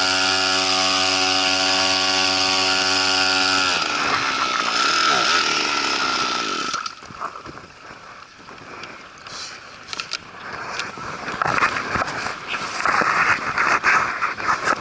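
Small outboard motor running at a steady speed, then about four seconds in its pitch falls as it slows and stops. Irregular knocks and rustling follow.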